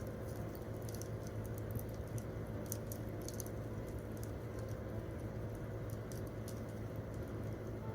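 Wood campfire burning and crackling, with scattered small pops and snaps over a steady low rumble.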